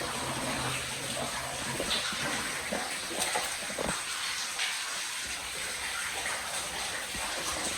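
Steady rush of running water echoing in a cave passage, with a few faint knocks.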